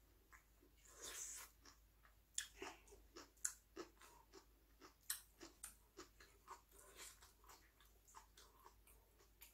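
A person chewing a mouthful of food close to the microphone: irregular soft wet clicks of the mouth, several a second, with a short hiss about a second in.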